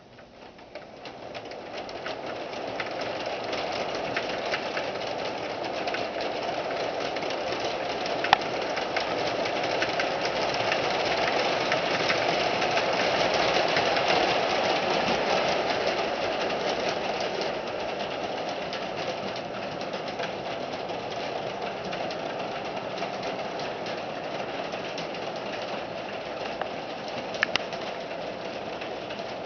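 Williams FP45 O-gauge model locomotive pulling a 32-car train along the track: a steady running rumble of motor and wheels with fine rapid clicking, building over the first two seconds as the throttle is opened. There are sharper clicks about eight seconds in and near the end.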